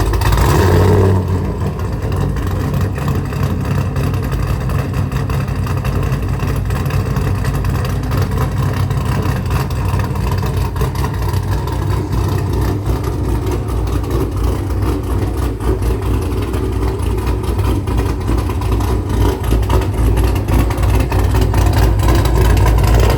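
A car engine starts with a loud flare for about the first second, then runs steadily at a loud idle. It cuts off suddenly at the end.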